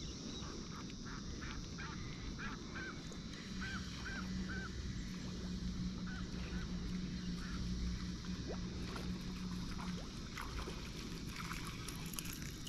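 A bird calling a run of about ten short, repeated high notes over the first few seconds, with a faint steady low hum underneath.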